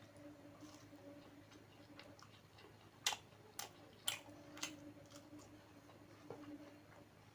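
A person chewing food with the mouth close to the microphone, with a run of sharp wet mouth clicks about twice a second around the middle.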